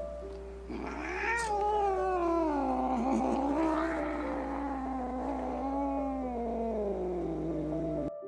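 A cat's single long, drawn-out yowl, rising at first, then slowly falling in pitch for about seven seconds before it cuts off suddenly.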